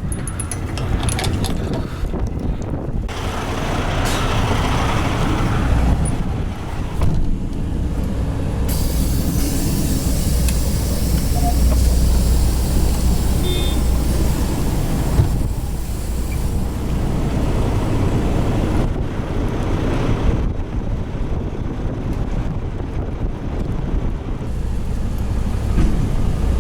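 Semi-truck running, its engine a steady low rumble, with gusting wind on the microphone. A hiss of air from the truck's air brakes lasts several seconds in the middle.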